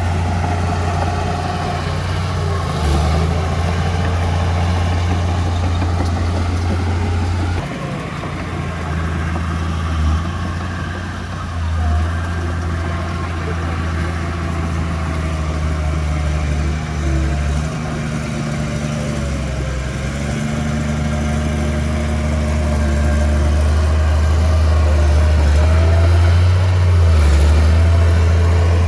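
Diesel engine of heavy earthmoving machinery running with a steady low drone. Its level drops about a third of the way in, then shifts several times and grows louder toward the end.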